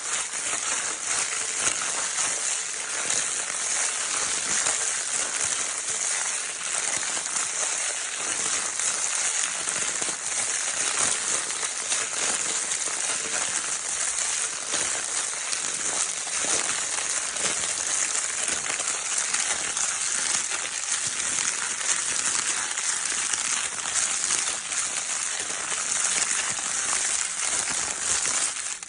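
Crinkle paper from a baby's crinkle toy being crumpled without a break: a dense, steady crackling with many fine snaps, bright and high.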